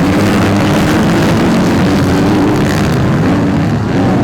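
A pack of 250cc motocross bikes racing off the start together, many engines running hard at once, their pitches wavering as the riders work the throttles and shift.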